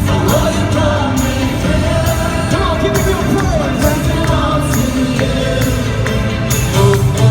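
Live worship band playing with voices singing over it, drums and cymbals keeping a steady beat, heard through a phone recording in a large hall.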